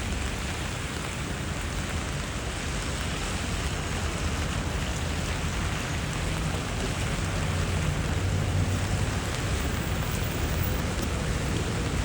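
Steady rain hiss on a city street, under a low rumble of passing traffic that swells in the second half.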